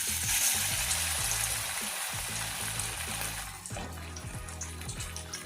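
Marinated chicken pieces going into hot oil for deep frying: a sizzle that starts suddenly and loud, then eases to a slightly quieter, steady fizz after about three and a half seconds.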